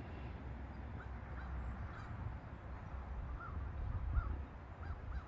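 Birds calling in short repeated calls, coming more often toward the end, over a steady low rumble.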